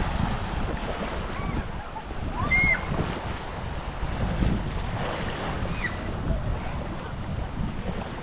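Small Baltic Sea waves washing on a sandy beach, with wind buffeting the microphone. A few faint, short high calls come through in the distance, once about two and a half seconds in and again near six seconds.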